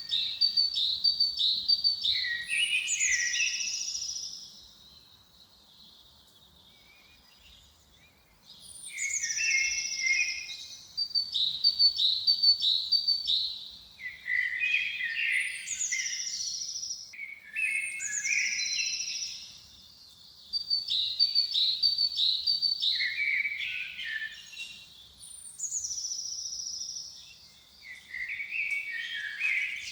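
A songbird singing the same short song phrase again and again, every few seconds: a run of quick high notes that drops into a lower trill. There is a pause of a few seconds without song near the start.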